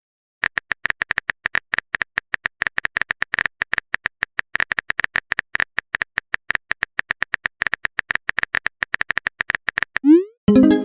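Phone-keyboard typing sound effect: rapid, irregular clicks, several a second, each with a short high tone. Near the end a short rising swoop and a pitched blip, a message-sent alert.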